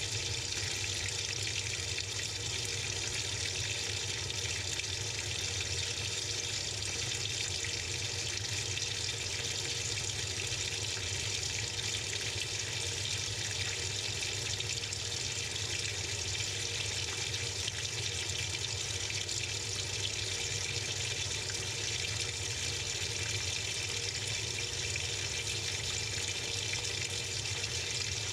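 Water pouring steadily into the tub of a Samsung 6.5 kg top-load washing machine, heard from inside the drum.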